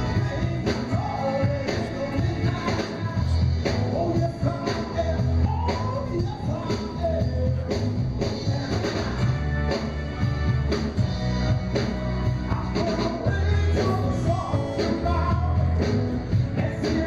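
Rock-and-roll band music with a lead singer over a steady bass and drum beat.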